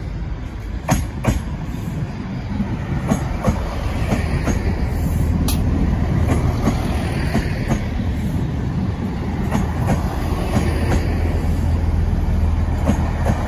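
GWR diesel multiple unit running slowly through the platform, its engine humming steadily under a rumbling wheel noise. The wheels click sharply over rail joints every second or so, and the sound grows louder over the first few seconds as the train draws alongside.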